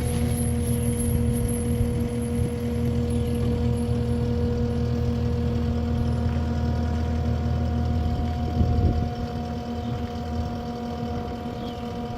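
Heavy vehicle engine running at a steady speed, its pitch unchanging, a little quieter after about nine seconds.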